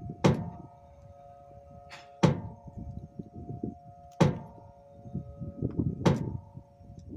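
A steady, continuous tone of several pitches that does not rise or fall, which the listeners take for a distant warning siren. A sharp knock lands about every two seconds, four times.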